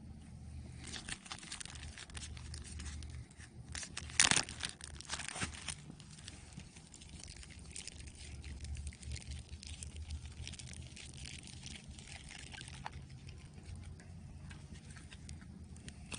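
Meat strips frying in a buttered pan over a campfire, a steady crackling sizzle that mixes with the crackle of the fire, with a louder burst about four seconds in.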